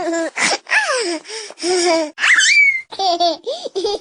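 A baby laughing in a rapid string of short bursts, with a high-pitched squeal a little past two seconds in.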